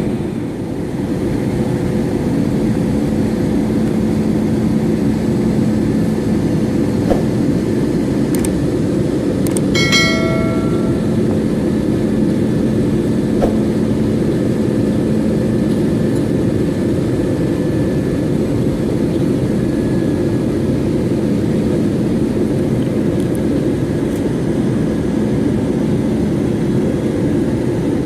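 Steady engine and airflow noise inside a jet airliner's cabin, a low even drone. A short single chime about ten seconds in.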